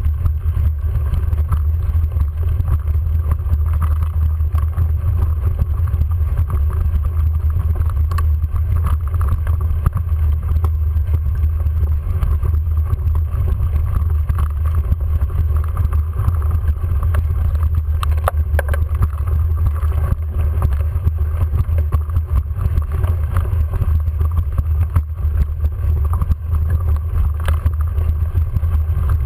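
Steady low rumble of wind buffeting the microphone, at a constant level, with a few faint clicks about two-thirds of the way through.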